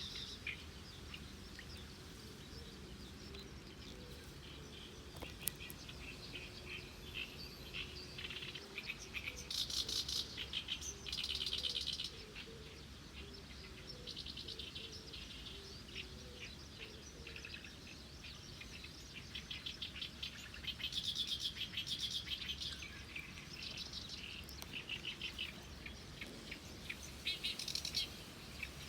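Small birds chirping and singing, with several loud runs of rapid trilled notes over a steady low background.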